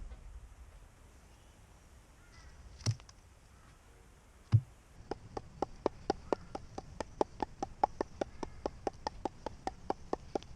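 Two single sharp knocks, then from about five seconds in a fast, even run of light knocks, about five or six a second.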